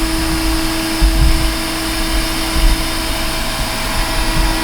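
TriStar EXL canister vacuum cleaner running during a suction test: a steady motor whine over the rush of air, with irregular low rumbling and bumps from about a second in.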